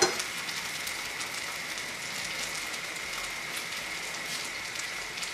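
Chopped okra deep-frying in hot oil in a nonstick karahi on high flame: a steady sizzle with fine, quick crackling.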